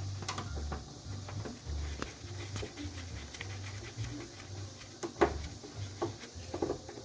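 Scattered light metallic clicks and scraping of hand-tool work inside a truck door, as the fasteners for a new door latch are driven in, with one sharper click about five seconds in.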